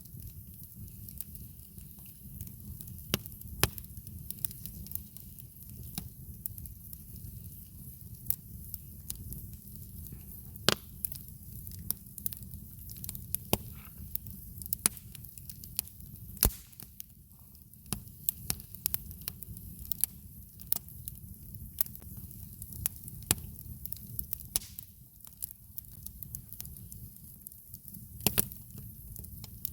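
Campfire crackling, with irregular sharp pops and snaps over a steady low background.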